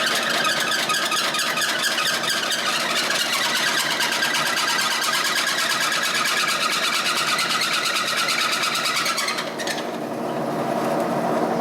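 Milling machine running a large drill bit through a workpiece to cut a cross bore: steady motor and spindle noise with a fast scratchy cutting chatter. About nine and a half seconds in, the high scratchy cutting sound falls away, leaving the machine running lower.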